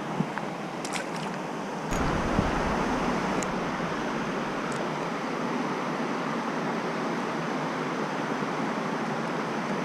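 Steady rushing of stream water, with a few light clicks in the first two seconds. A low rumble on the microphone comes in about two seconds in.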